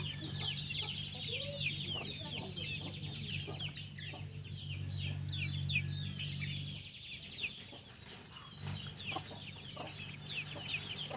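Many small birds chirping rapidly and continuously, in short downward-sliding peeps. A steady low hum runs underneath, dropping out about seven seconds in and returning near nine seconds.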